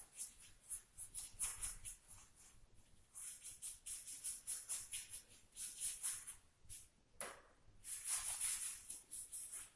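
Paint applicator dabbing and scrubbing paint onto textured gypsum tiles in quick, scratchy strokes, several a second, with a brief pause about seven seconds in.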